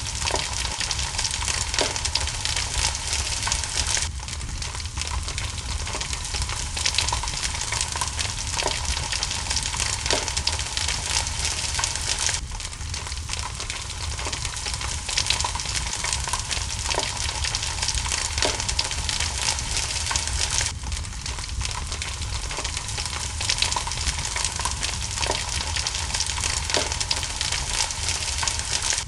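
Steady hiss of rain together with a wood fire crackling in a fireplace, with occasional sharper pops.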